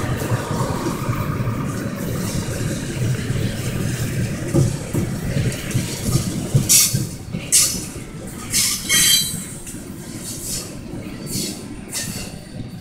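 Freight train gondola cars rolling past, a steady rumble of steel wheels on rail. From about six seconds in, the wheels let out several brief high-pitched squeals.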